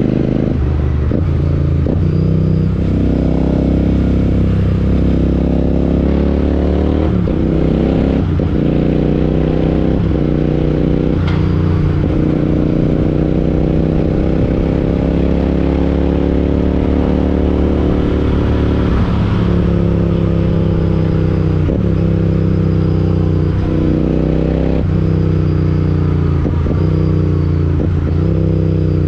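Royal Enfield Interceptor 650's parallel-twin engine running through an aftermarket Chris Michael exhaust while being ridden. The engine note climbs and drops again and again, with short breaks at the gear changes and a longer steady pull in the middle.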